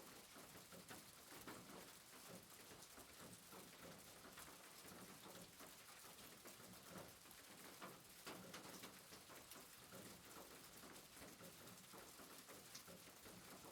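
Faint soft rain: an even hiss with scattered light patter of drops.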